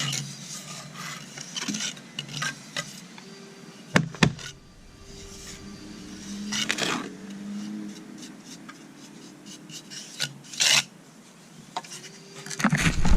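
Hand tool scraping and rubbing in irregular strokes, with a few sharp knocks, loudest near the end.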